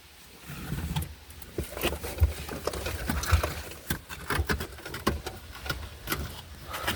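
Irregular clicks, knocks and scuffs of hand work inside a car: tools and interior trim parts being handled while the car's interior is stripped out.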